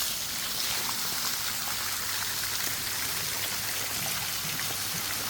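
Steady hiss of running, spattering water, as when elephants are being bathed, with a low steady hum underneath.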